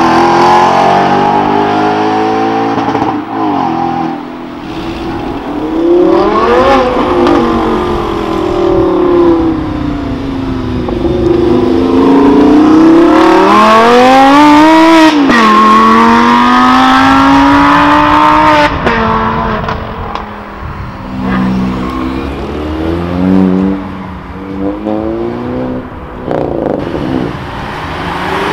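Audi sports car engines accelerating hard, their pitch climbing and dropping at each gear change. The longest, loudest pull, about halfway through, comes from an Audi R8 Spyder pulling away. Near the end there is a run of short revs.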